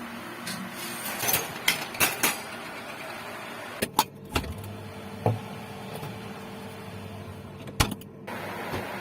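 Steady background hum broken by scattered short clicks and knocks, in two clusters and one sharp knock near the end.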